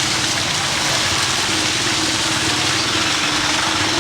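Engine idling steadily, with a fast low pulsing, over a continuous hiss of outdoor noise.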